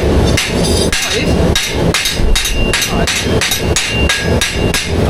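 Hammer striking metal in a quick, even run of blows, about three a second.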